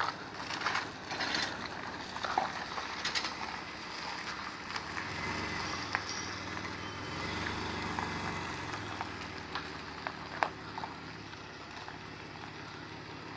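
An engine idling steadily at low speed, its pitch swelling slightly about midway, with scattered light clicks and knocks over it.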